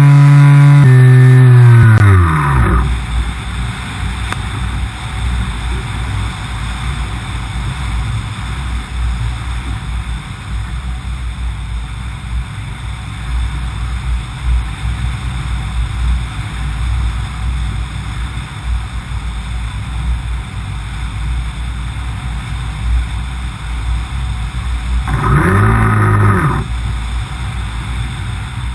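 A Skywalker RC plane's electric motor cuts out and spins down, its whine falling in pitch and dying away about two seconds in: the motor failure. Steady wind rush follows. Near the end the motor briefly runs up and winds down again.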